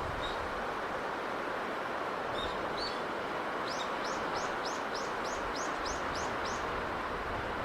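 A small bird chirps over a steady rushing wash of sea breeze. There are a few single high chirps, then a quick run of about ten arched chirps, three or four a second, in the middle.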